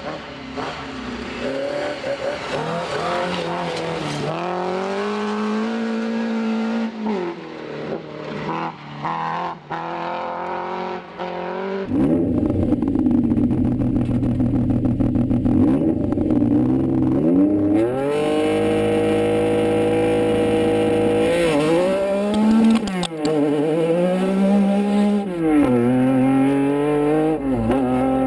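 Rally car engines revved hard on a stage, the pitch climbing and dropping back with each gear change. About twelve seconds in, a louder, closer car takes over, with a steady high whine above the engine.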